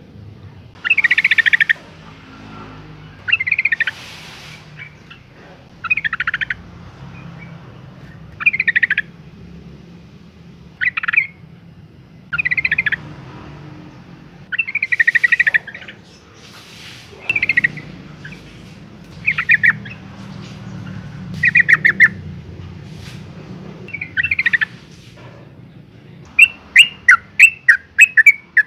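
Female yellow-vented bulbul calling to males: short bursts of quick chattering notes about every two seconds, then a faster run of sharp notes near the end.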